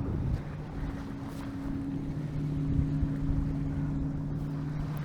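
Wind buffeting the microphone in a low rumble, over a steady low hum of two tones that carries through the whole stretch.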